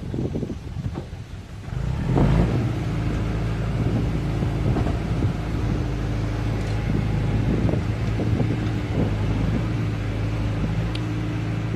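Excavator engine running steadily after getting louder about two seconds in, a low hum, with scattered knocks before it.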